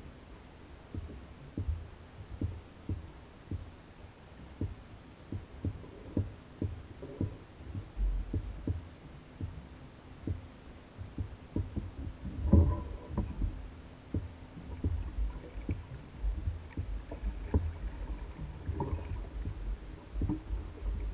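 Small waves lapping and slapping against the hull of an Old Town Guide 119 canoe as it bobs on open water. The short, low knocks come irregularly, one to a few a second, with a louder cluster of slaps about twelve seconds in.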